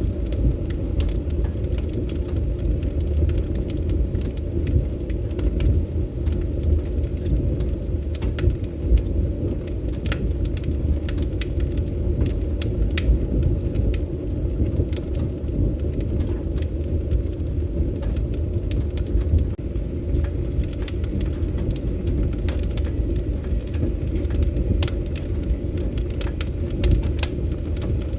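Wood fire burning in a fireplace: a steady low rumble of flames with irregular sharp crackles and pops of burning wood scattered throughout.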